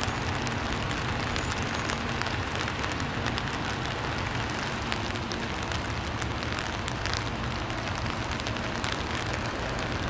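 Rain falling on an umbrella held over the microphone: a steady hiss dotted with many small drop ticks. A steady low hum runs underneath.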